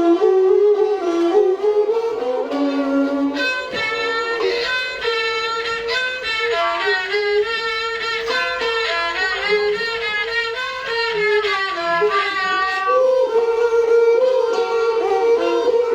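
Thai classical ensemble music: a sustained bowed-string melody line, with a busier passage of quick notes from about four seconds in until near thirteen seconds.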